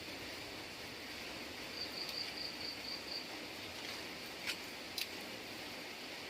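Steady hiss of rain with an insect-like background. About two seconds in there is a short run of about six high chirps, and later two sharp ticks a half second apart.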